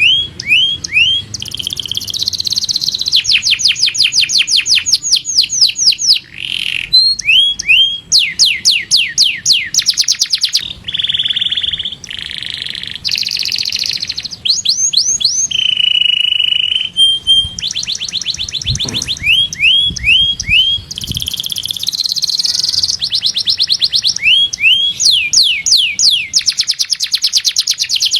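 A canary singing a long song of rapid trills, each a fast run of the same sweeping note, changing from one trill to the next every second or two, with one held steady note a little past halfway.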